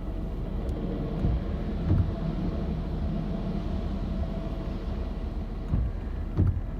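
Tokyu Line electric train passing through a level crossing: a steady low rumble that swells midway, with two pairs of dull thumps, one pair about a second in and another near the end.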